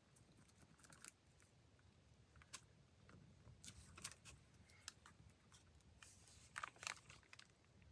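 Near silence with faint paper handling: scattered soft rustles and small taps, a few a little louder near the end.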